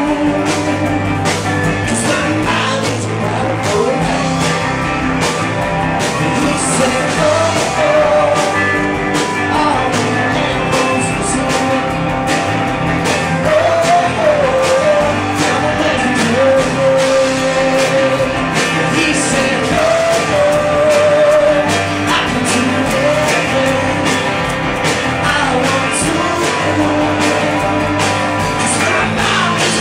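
A live indie rock band playing: guitars and a drum kit with steady hits, under a wavering lead melody line that may be wordless singing.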